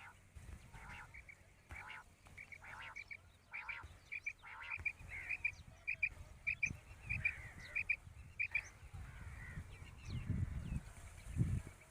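Quail calling: runs of short, high, clipped notes, often in twos and threes, repeated over several seconds, with low rumbles near the end.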